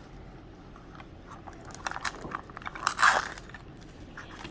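Small plastic packaging crinkling and clicking in the hands as a mini toy is unwrapped, with scattered crackles and the loudest rustle about three seconds in.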